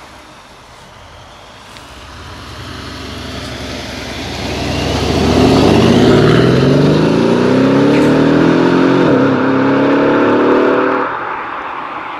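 Mercedes ML63 AMG's 5.5-litre twin-turbo V8 accelerating hard past and away, the exhaust note rising steadily in pitch. There is a brief dip for an upshift about nine seconds in, then it climbs again. The sound drops off sharply about a second before the end.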